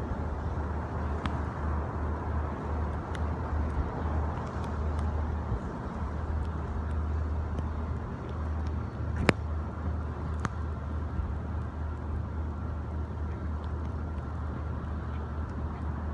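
Steady low rumble of outdoor background noise, with a few sharp clicks, the loudest about nine seconds in.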